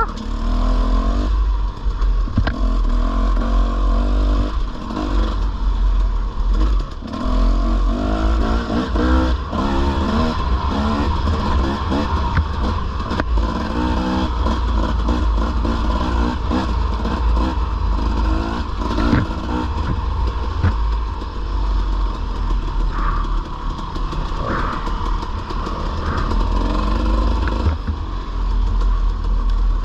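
Dirt bike engine being ridden on a trail, revving up and down over and over as the throttle opens and closes, with a steady low rumble underneath and scattered knocks and rattles.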